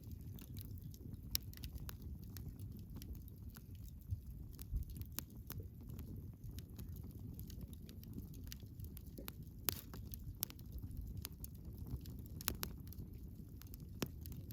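Wood campfire burning, with irregular sharp crackles and pops over a low steady rumble from the flames; the loudest pops come about a second in, near ten seconds and near the end.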